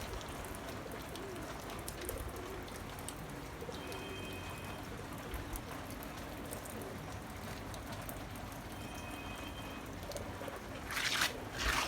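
A dove cooing over a steady hiss of falling rain, with a couple of short high bird notes and two brief rustles near the end.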